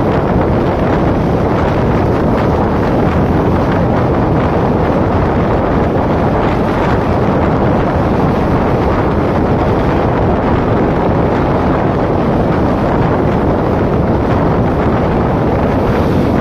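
Steady wind rush on the microphone of a moving motorcycle, with the bike's running noise underneath.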